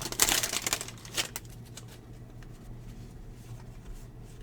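Baseball trading cards being handled and slid through a stack: light rustling and clicks, busiest in the first second and a half, then faint scattered ticks over a low steady hum.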